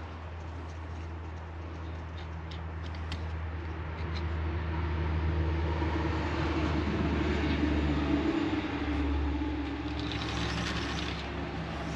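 Metal lathe running with a steady motor hum and a few light clicks, the low hum shifting briefly about eight seconds in.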